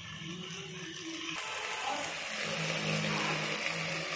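Mixed vegetables and masala sizzling in a steel pot on the stove as curd is stirred in: a steady hiss that gets louder about a second in.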